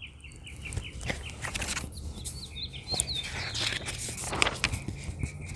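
Small birds chirping, with a quick run of repeated short chirps at the start and scattered chirps around the middle. Soft rustles and taps as a hardcover picture book is handled and opened.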